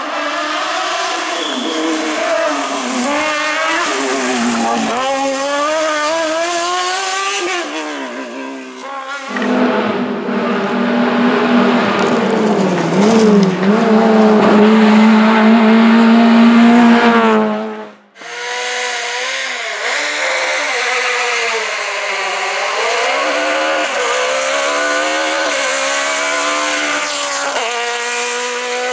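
Hillclimb race cars' engines at high revs, rising and falling as they change up and down through the gears, in three stretches that cut from one to the next. The middle stretch is the loudest and holds a strong steady drone, and the sound drops out briefly before the last stretch.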